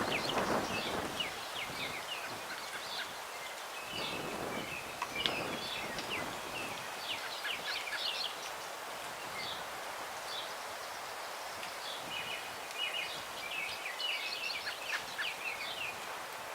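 Several small songbirds chirping and singing in quick short notes, over breeze rustling through the branches of old trees; the wind gusts strongest at the start and again about four to five seconds in.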